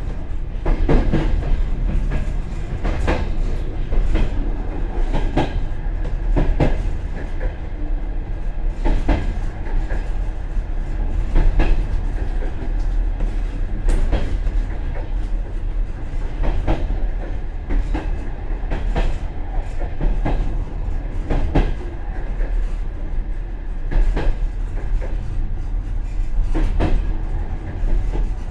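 Express passenger train running, its wheels clicking over rail joints every second or two above a steady low rumble, heard from the rear vestibule of the tail carriage.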